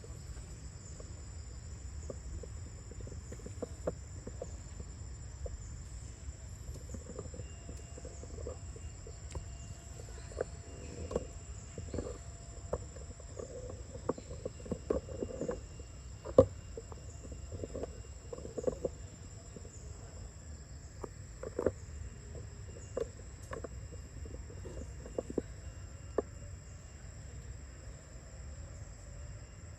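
Steady high-pitched insect chorus, cricket-like, pulsing evenly, over a low rumble. Scattered short clicks and knocks come through the middle, the loudest about halfway through.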